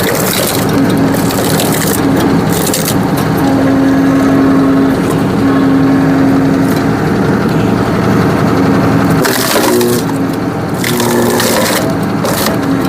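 Tractor-mounted hydraulic log splitter driving its wedge through a large, knotty log: the wood cracks and splinters again and again over the steady drone of the tractor and its hydraulics under load. About three seconds before the end the drone breaks off and the cracking eases.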